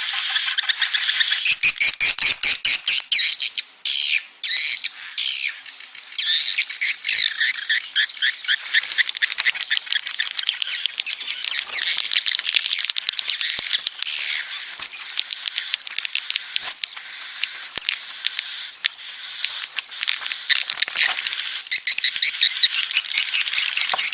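A flock of edible-nest swiftlets calling: dense, high-pitched chirping and twittering with bursts of rapid clicking stutters, then a run of repeated rising calls about once a second. A swiftlet-farm lure recording of the kind sold as the mating and breeding call.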